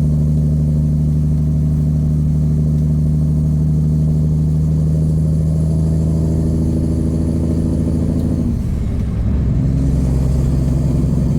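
Peterbilt semi truck's diesel engine running steadily, its note climbing slowly for a few seconds. About eight and a half seconds in it dips briefly, then settles back to a steady, slightly lower drone.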